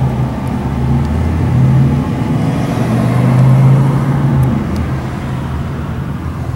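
Car engine and road noise from a moving car: a steady low hum whose drone swells twice, about two and four seconds in, as the car picks up speed.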